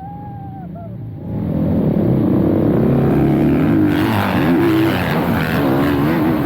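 Dirt bike engine revving up and down as it rides, its pitch rising and falling repeatedly, with wind noise over the microphone. It jumps sharply louder a little over a second in.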